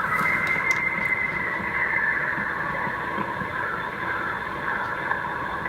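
A cell-phone recording of an unidentified weird noise in the woods: a drawn-out, slightly wavering high tone held for several seconds over hiss. Car noise sits in the background.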